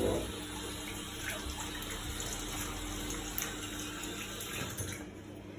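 Samsung WF1700WRW front-loading washing machine filling with water: a steady hiss of water running in through the inlet, which falls away about five seconds in.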